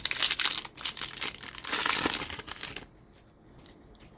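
Plastic foil wrapper of a trading-card pack crinkling as it is handled and opened, stopping about three seconds in.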